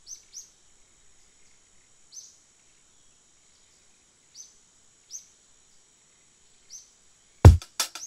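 Short, high bird chirps every second or two over a steady thin high-pitched tone. Near the end a heavy drum-machine beat of the music track cuts in, loudest by far.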